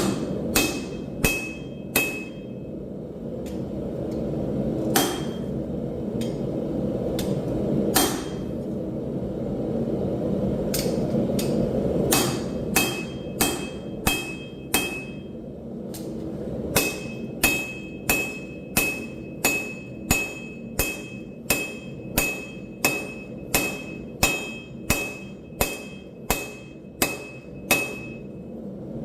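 Hand hammer blows on steel over an anvil, each strike leaving a short metallic ring. A few scattered blows come first, then a steady run of about two blows a second through the second half. A steady low rushing noise sits underneath throughout.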